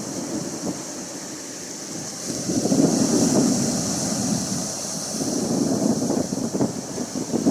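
Atlantic Ocean waves washing in, swelling twice over a steady hiss of surf.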